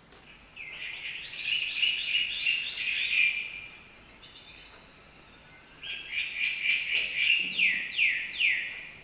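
Recorded tropical bird cheeping, played from a children's sound book's speaker: two bursts of rapid high chirps, the second ending in a few quick falling notes.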